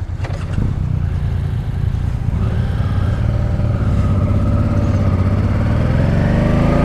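Honda Deauville's V-twin motorcycle engine pulling away, its pitch rising steadily through the second half as the bike accelerates.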